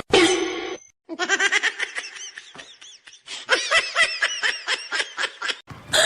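Laughter in quick repeated high-pitched bursts, each rising and falling in pitch, with a short pause midway.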